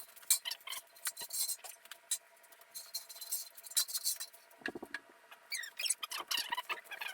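Pallet jack under a heavy sliding table saw, giving irregular light clicks and short high squeaks as it lifts and rolls the load, with a cluster of quick squeaks about five to six seconds in.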